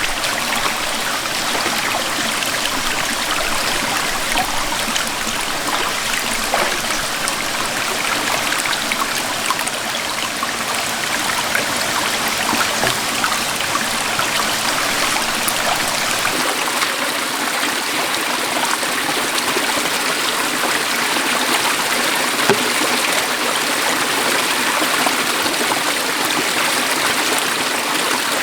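Stream water running steadily, with the deeper rumble of the flow dropping away about sixteen seconds in.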